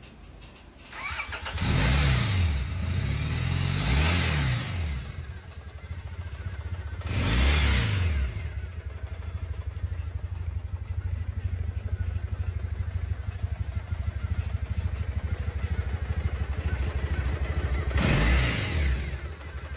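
Motorcycle engine starting about a second in, then revved with throttle blips, twice early, once about seven seconds in and once near the end, settling to a steady low idle in between.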